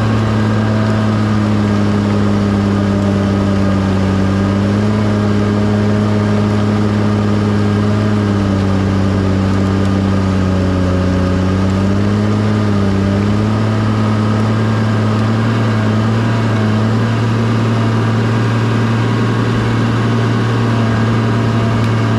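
Bulldozer's diesel engine running steadily, its pitch sagging slightly now and then under load.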